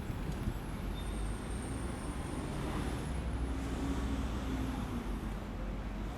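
Strong wind buffeting the phone's microphone over city street traffic noise.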